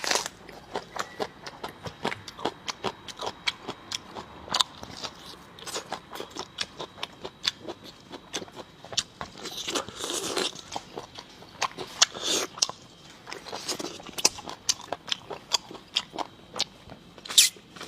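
Close-miked chewing and biting: wet mouth clicks several times a second, with a few louder crunches about ten seconds in, around twelve seconds and near the end. The food is a bite of raw scallion taken with braised pork leg.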